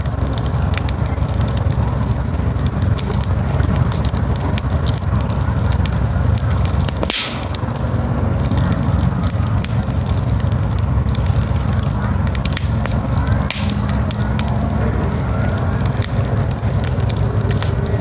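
Campfire burning, a steady crackle of many small pops over a low rumble, with a brief louder hiss about seven seconds in.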